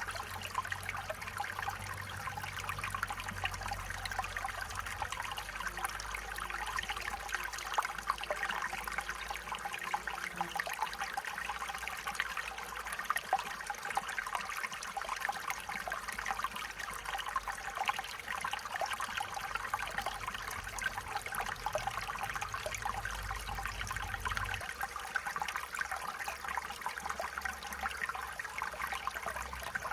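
A small stream flowing steadily, water trickling and babbling over stones.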